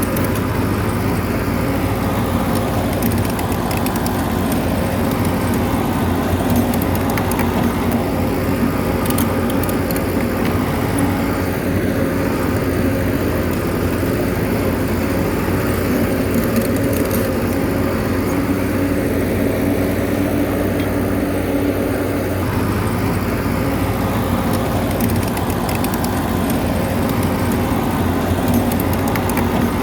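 Bulldozer's diesel engine running steadily, with faint metallic clinking.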